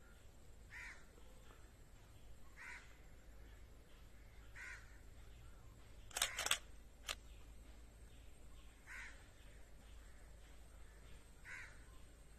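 A bird calling five times with short, harsh calls about two seconds apart. A quick cluster of three sharp clicks, the loudest sounds, comes in the middle.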